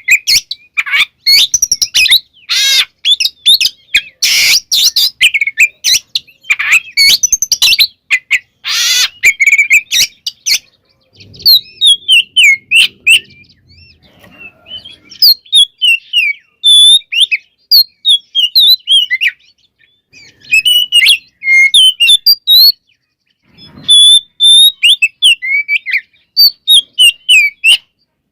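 Oriental magpie-robin singing vigorously in a varied, mimicry-filled song. About the first ten seconds are loud, harsh, rasping phrases; after that comes a run of rapid whistled notes in short phrases with brief gaps.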